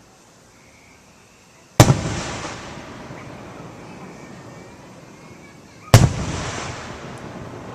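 Two aerial fireworks bursting, about four seconds apart. Each is a sharp bang followed by a rumbling echo that fades over a few seconds.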